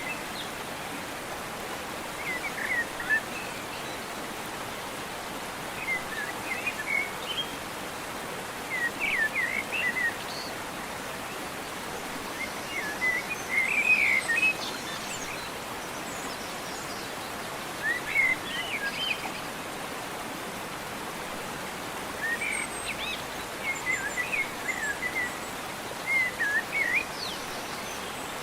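A bird singing short chirping phrases that recur every few seconds, over a steady outdoor rushing noise.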